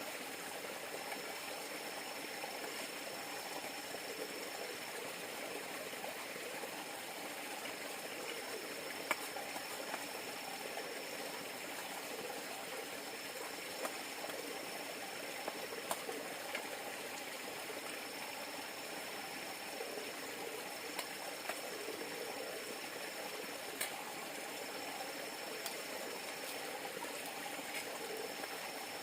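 River water flowing steadily, with a constant thin high-pitched whine over it and a few scattered small clicks.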